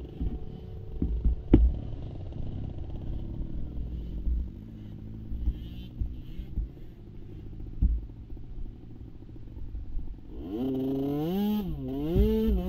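Small youth racing ATV engine running, with scattered knocks and thumps, then from about ten seconds in getting louder and revving up and down repeatedly in quick swells.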